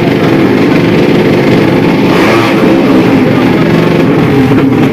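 Drag-race motorcycle engines running loud, with a brief change in pitch about two seconds in.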